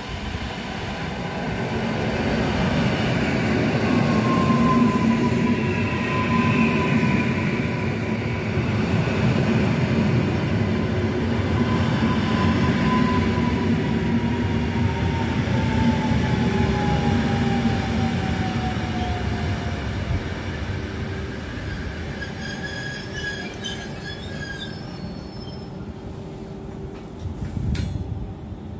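PKP EN57 electric multiple unit pulling into a station, its wheels rumbling over the track and growing louder as it draws alongside, then easing as it slows. A high tone slowly falls in pitch as the train loses speed.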